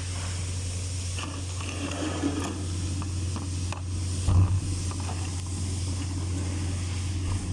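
Metal parts and hand tools clicking and knocking during disassembly of a skid loader's hydraulic travel motor, with one louder clunk about four seconds in, over a steady low hum.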